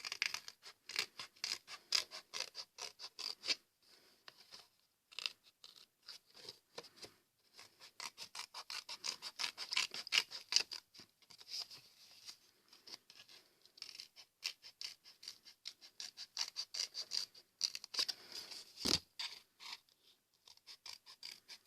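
Scissors cutting through paper in many short, quick snips and rasps, with a brief pause a few seconds in and one sharper click near the end.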